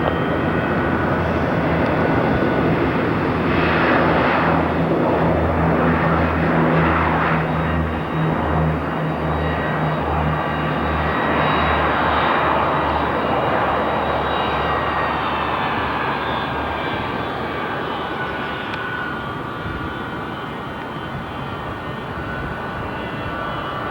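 Airliner's engines at takeoff power on the runway, a steady loud rumble with low droning tones that die away about two-thirds of the way through as the noise slowly fades.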